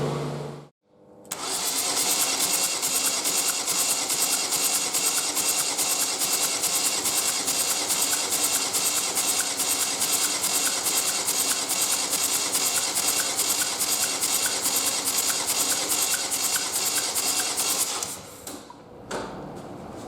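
Ford Focus II 1.6 TDCi (G8DA) diesel engine on a test stand, turning over with an even, rapid pulse for about sixteen seconds, then stopping.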